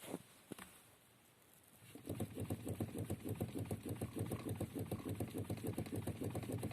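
A Nissan Qashqai's steering shaft knocking and rattling at the joint where the shaft sections meet, as the steering is worked. A fast, even rattle begins about two seconds in: the sign of play in the steering shaft joint.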